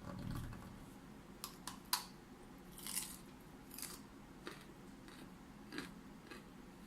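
A person biting and chewing food close to the microphone: a low thud at the start, a few sharp crisp crunches just before two seconds in, then softer crunchy chews every second or so.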